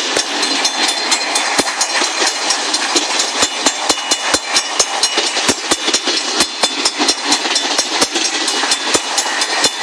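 Long freight train rolling through a road crossing, its steel wheels clacking and banging over the rail joints and crossing in a quick, uneven run of knocks over a steady rumble of rolling cars.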